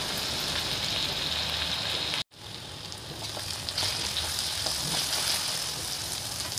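Mushroom strips frying in mustard oil in a metal kadhai, a steady sizzle. The sound cuts out for an instant a little over two seconds in, then the sizzle resumes slightly quieter.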